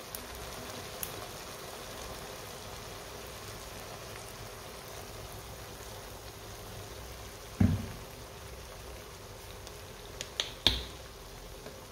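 Chicken pieces in sauce simmering and sizzling steadily in a non-stick wok, with one thump a little past halfway and a few sharp clicks near the end.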